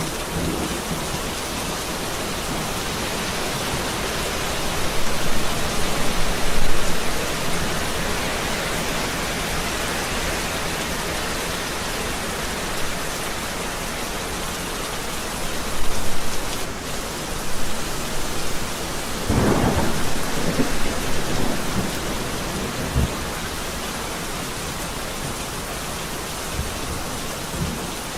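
Steady rain falling through a thunderstorm, with thunder rumbling several times: a swell about a quarter of the way in, another about midway, and a longer rolling stretch about two-thirds through.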